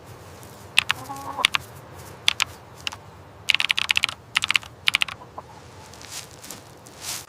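Clusters of sharp clicks and taps in quick runs, with a short clucking call about a second in.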